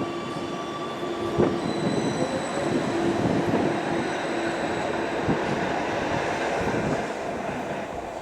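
A train running on rails, a steady rumble with a thin, high wheel squeal from about two seconds in.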